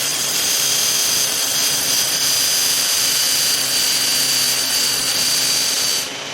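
High-speed power tool running steadily, a high whine over a hiss with little low end, easing off slightly near the end.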